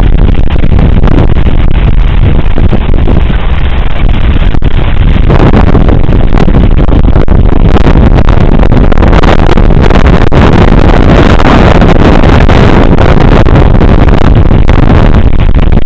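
Hurricane-force wind buffeting the camcorder microphone: a continuous, distorted rush of noise, close to overloading, that grows stronger about five seconds in and again near eight seconds.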